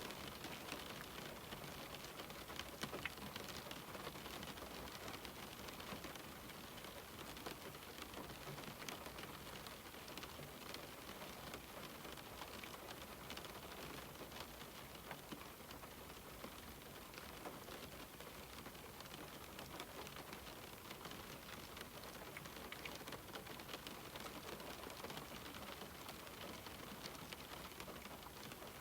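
Rain falling on a window pane: a steady hiss of rain with many small, sharp drop ticks scattered through it, a little heavier in the first few seconds.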